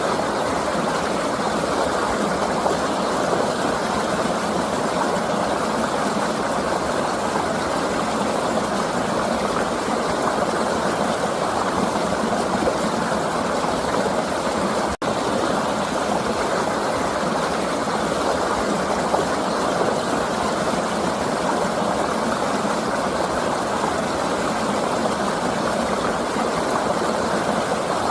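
River water flowing in a steady, even rush, broken by a momentary dropout about halfway through.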